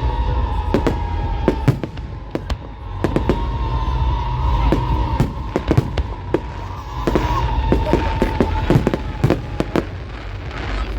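Fireworks display going off: many sharp bangs and crackles at irregular intervals, over loud music with a pulsing bass.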